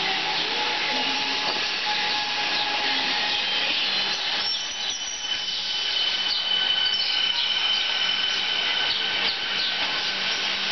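Comeng electric suburban train moving past close by along the platform: a steady rolling noise with thin high-pitched whining tones through it, one of them stronger for a few seconds in the middle.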